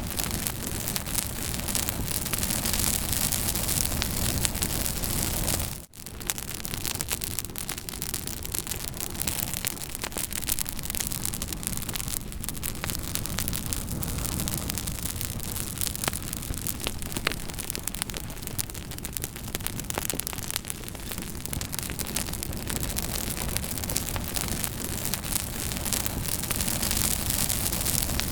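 Campfire crackling, with many small sharp snaps over a steady rushing hiss. The sound drops out for a moment about six seconds in.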